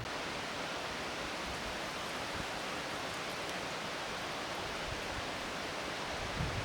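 Rushing water of a mountain stream or falls, a steady, even hiss without breaks.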